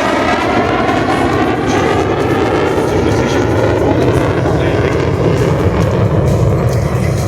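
An F-35B's F135 jet engine running loud as the jet comes in to land: a steady roar with a whine that slowly falls in pitch.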